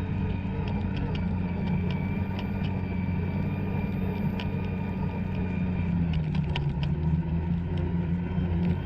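Two-stroke snowmobile engine running steadily under way, its pitch dropping a little about six seconds in.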